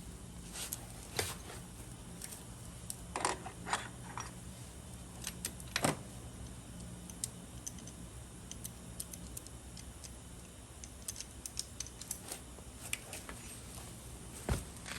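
Honda Live Dio AF34 scooter's two-stroke single-cylinder engine running with a low steady hum and irregular sharp metallic clicks and ticks, the abnormal engine noise being shown.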